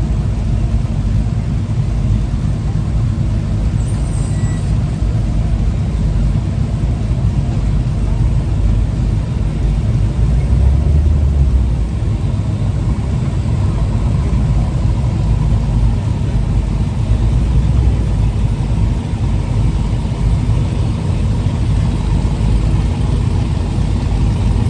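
Steady low rumble of truck engines running.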